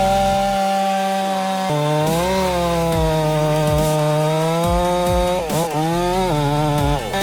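Chainsaw engine running at high revs under load while cutting wood, its whine holding steady with small rises and dips and briefly sagging twice near the end as the chain bites.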